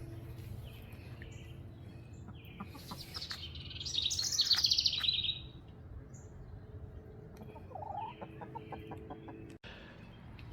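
Backyard birds singing: a loud, rapid high trill from about three to five seconds in, then a lower run of quick notes near the end, over a faint steady hum.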